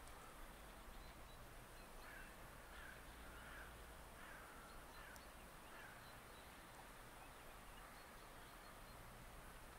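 Faint, distant bird calls: a short series of about six calls between two and six seconds in, over a near-silent outdoor background.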